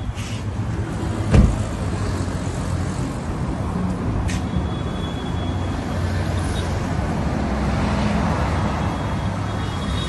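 A 2008 Toyota Camry's engine idling steadily, with one loud thump of a car door being shut about a second and a half in and a sharp click a few seconds later.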